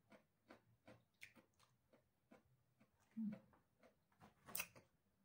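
Faint mouth sounds of someone eating raw vegetable salad: soft, repeated crunching clicks, about two to three a second. A short hum of the voice comes a little after three seconds, and a sharper click comes about four and a half seconds in.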